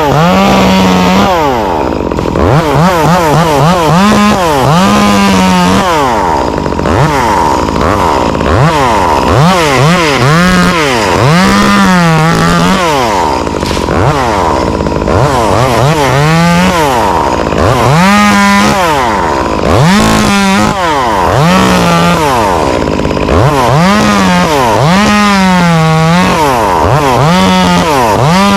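Two-stroke chainsaw cutting mango limbs, revved up to full throttle and dropped back over and over, each burst lasting a second or two. A steady high tone runs underneath.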